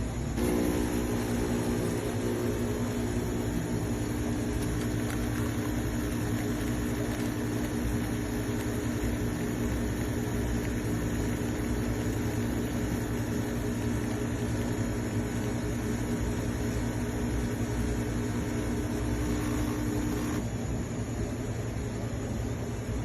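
CHULUX espresso machine's pump running steadily while pulling a shot, a buzzing hum that starts just after the beginning and cuts off about twenty seconds in, leaving a low background hum.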